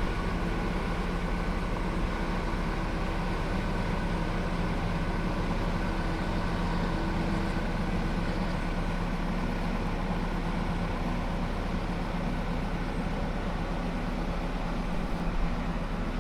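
Engine of a heavy forestry carrier machine running steadily, a constant hum that does not change.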